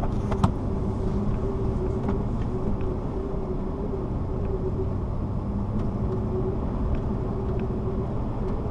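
A car driving at steady speed: low road and engine rumble with a steady hum, and one sharp click about half a second in.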